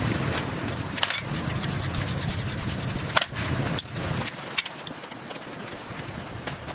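Rubbing and scraping noise with scattered sharp clicks and taps, one louder click about three seconds in.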